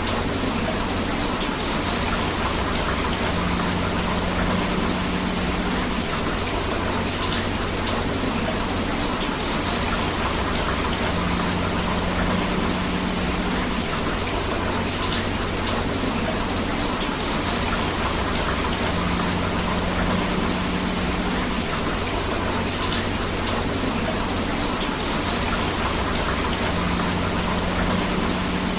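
Steady rain together with rushing river water, an even continuous hiss. A faint low hum comes and goes about every eight seconds.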